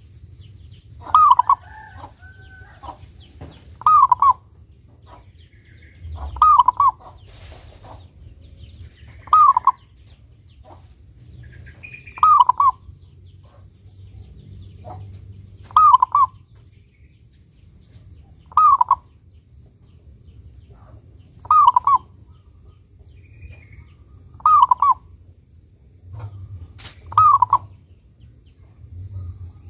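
Zebra dove (perkutut) cooing: a short call of a few quick notes, repeated about every three seconds, some ten times. Faint higher chirps sound between the calls.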